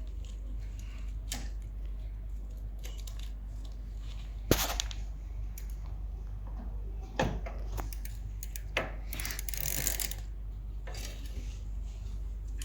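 Bicycle parts and tools being handled while the crank area is put back together: scattered sharp clicks and knocks, the loudest about four and a half seconds in, and a short rustle near the ten-second mark.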